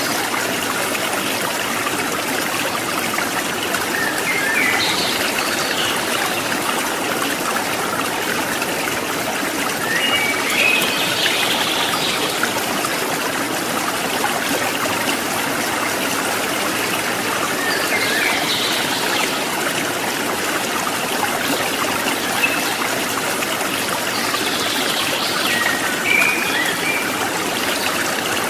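Water trickling and splashing steadily over rocks in a stream. A few brief high chirps rise above it now and then.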